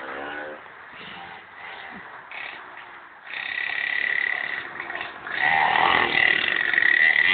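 Minimoto (mini dirt bike) engine buzzing at a high pitch, growing louder from about three seconds in and loudest as the bike rides past.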